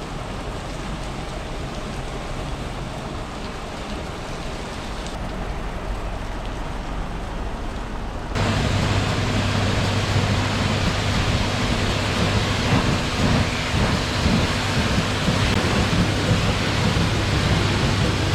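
Automatic truck-wash machine spraying water over a large truck, a steady rain-like rush. About eight seconds in it abruptly gets louder, and a low steady machine hum joins in.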